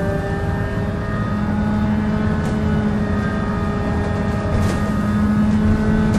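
Volvo B7L single-deck bus running with a steady groaning drone: several held tones over a low engine rumble, with a few light rattles.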